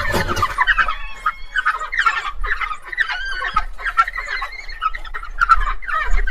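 A flock of domestic fowl calling at once: a dense run of short, overlapping calls.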